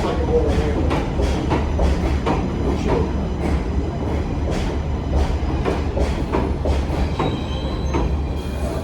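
R188 subway train running on the 7 line: a steady low rumble with wheels clicking over rail joints two to three times a second, and a faint high wheel squeal coming in near the end.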